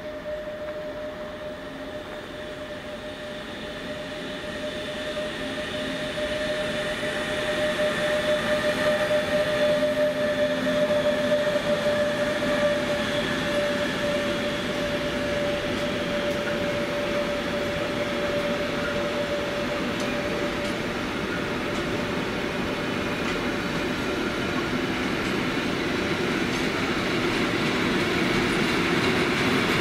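Train running past on the tracks, growing louder over the first ten seconds or so, with a steady high-pitched whine held throughout over the rumble of wheels on rails.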